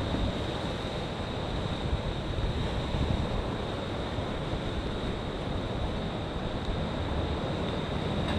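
Sea waves washing ashore, with wind buffeting the microphone in a steady low rumble.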